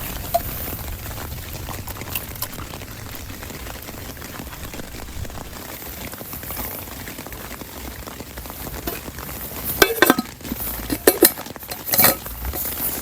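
Camp cooking: a steady hiss under sharp metallic clinks of a utensil against a pot. The clinks come in a cluster near the end.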